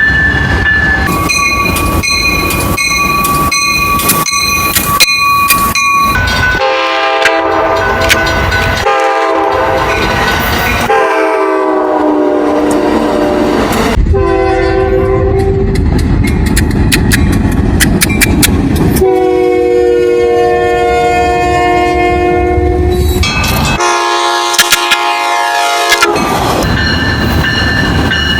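Diesel locomotive air horns sounding chords over the rumble of passing trains, in a run of short shots cut one after another. Rail wheel clatter is heard in the first few seconds.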